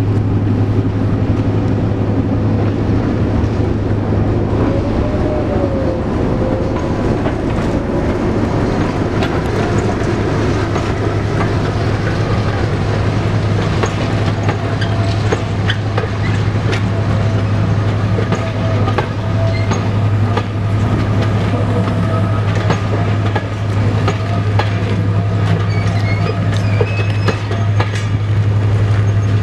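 Diesel-hauled passenger train passing close by, its coaches rolling past with wheels clicking over rail joints over a steady low drone.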